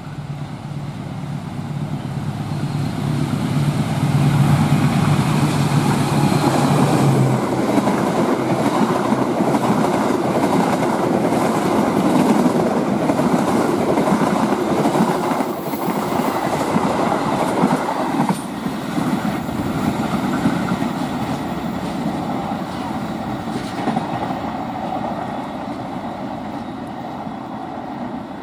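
Indonesian diesel-hauled train passing close by at speed: the locomotive's steady engine drone builds and goes by in the first several seconds, then the carriages' wheels clatter over the rail joints and the sound slowly fades as the train moves away.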